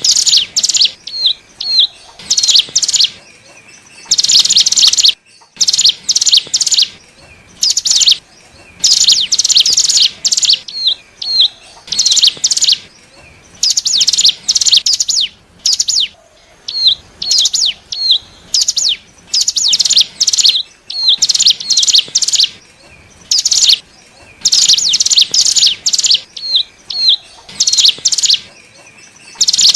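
Ciblek gunung (cigun) singing, used as a lure call for wild birds: loud, rapid buzzy bursts of high notes repeated every second or so, with short hooked chips between them.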